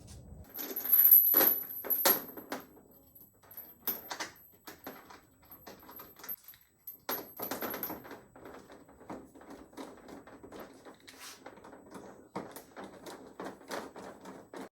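Zinc chain clinking and rattling as it is handled on the back of a TV, in irregular bursts with the loudest about a second in.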